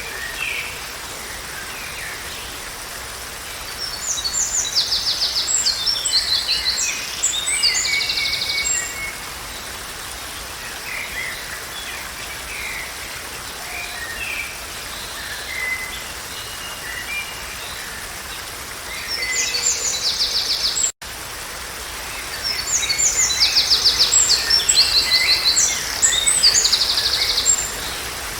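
A songbird singing long phrases of quick trills and chirps, once a few seconds in and again through the second half, over a steady background hiss. The sound cuts out for an instant just after the middle.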